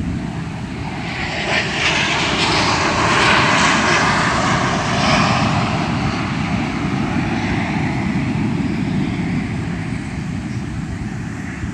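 An airplane engine passing over: the noise swells to its loudest a few seconds in, then slowly fades away.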